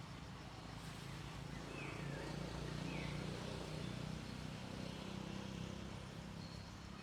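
Outdoor ambience with a low motor rumble that swells and then fades, like a vehicle going by at a distance, and two short, high chirps about two seconds in.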